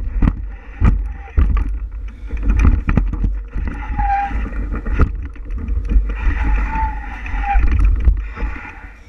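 Bicycle ride on a rough trail: wind rumbling on the microphone, with frequent rattles and knocks from the bike jolting over bumps, and a few brief squeaks.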